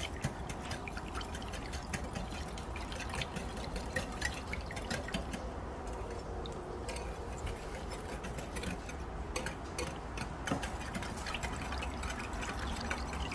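A whisk beating cornstarch into a liquid sauce in a bowl: a steady run of quick light clicks of the wires against the bowl, with the liquid sloshing.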